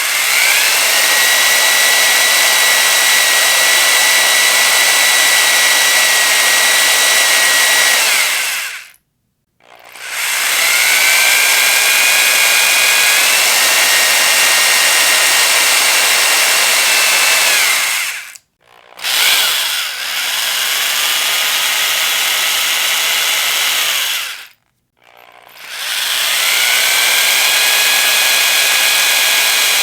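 Electric power drill run in four long bursts. Each burst spins up to a steady high whine and stops after a few seconds, with a brief gap before the next.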